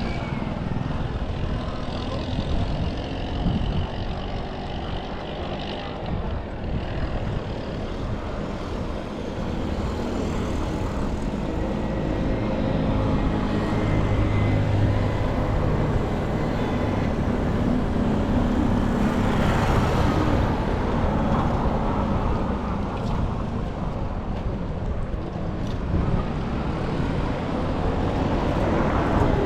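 Street traffic: motor vehicle engines running and passing close by over a steady traffic hum, with one engine loudest about halfway through.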